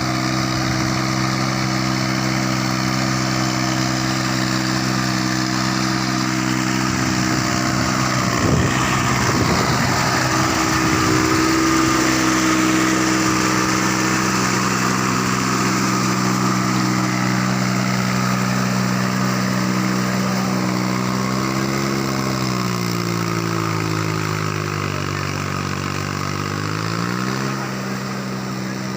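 VST Shakti 18 hp 4WD mini tractor's diesel engine running steadily, with a stretch of irregular knocking about eight to eleven seconds in. Its engine speed drops for a few seconds about 22 seconds in, then picks back up.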